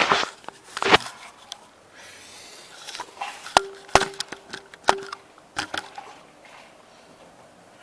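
Hand tools and metal carburetor parts clinking and knocking as the carburetor is unbolted and lifted off an engine: a string of sharp clicks and knocks, a few of them ringing briefly like struck metal, fading out about six seconds in.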